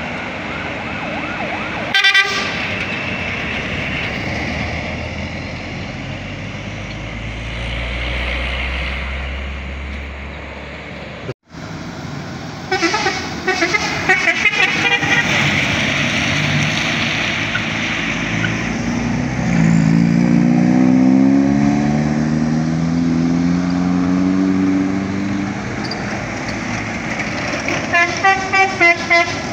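Passing buses and trucks sounding their horns in short pulsed blasts, with a quick run of rapid honks near the end. In between, a heavy vehicle's engine climbs steadily in pitch as it accelerates past.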